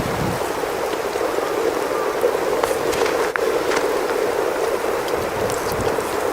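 Steady patter of precipitation falling on a surface, with scattered light ticks.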